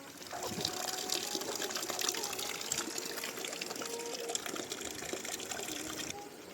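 Water running and splashing, a dense rushing hiss full of small drip-like clicks, which starts suddenly and cuts off abruptly near the end.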